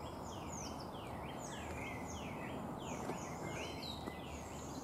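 A songbird singing a quick run of repeated high, downward-sliding notes, about three a second, that eases off near the end, over a steady low background hum.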